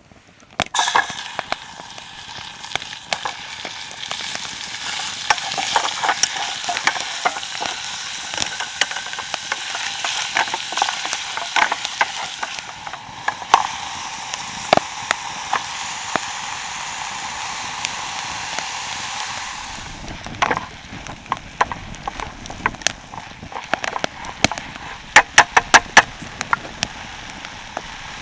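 Food sizzling and spitting in a hot pan: a steady frying hiss full of small pops, which starts about a second in. After about twenty seconds the hiss drops away and is followed by scattered sharp crackles and pops, several loud ones close together near the end.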